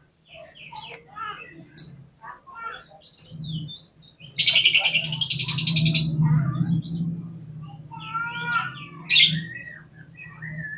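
Oriental magpie-robin (kacer) calling: short, sharp high notes, then a loud harsh rasping churr lasting almost two seconds about four seconds in, followed by warbled song phrases and another sharp note. A faint steady low hum lies underneath.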